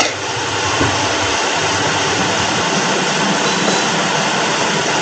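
A steady, even rushing noise with no speech. It runs on unchanged under the narration on either side.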